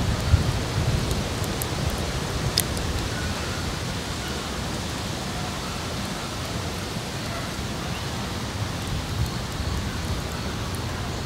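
Steady hiss of wind noise on the microphone, with a low rumble that eases after the first couple of seconds and a few scattered sharp clicks, one louder about two and a half seconds in.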